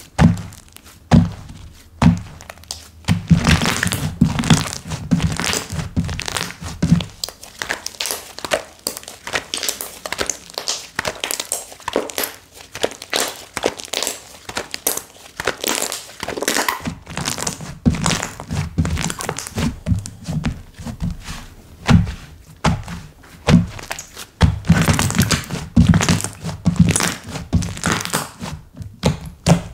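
Hands squishing, poking and folding slime, giving a fast, irregular run of sticky pops, clicks and soft thunks.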